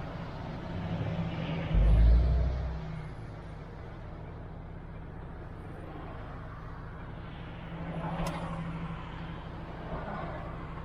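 MAN TGX truck's diesel engine running low and steady while driving. About two seconds in there is a loud low thump, and later a single sharp click.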